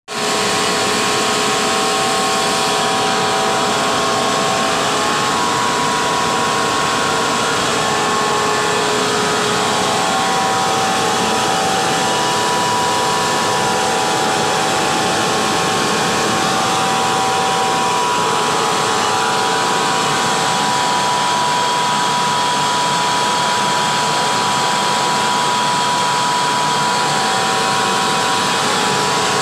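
Kobelco 15 kW air compressor running steadily: a loud, even rushing noise with several steady whining tones.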